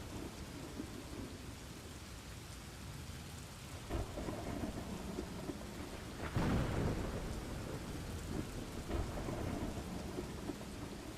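Thunderstorm: steady rain with low rolling thunder. A sharp crack comes about four seconds in, and a louder thunderclap, the loudest moment, about two seconds later.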